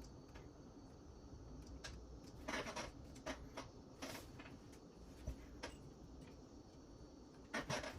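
Faint, scattered clicks and short rustles of hands handling wiring and small parts on an RC helicopter frame, a dozen or so irregular small knocks over quiet room tone.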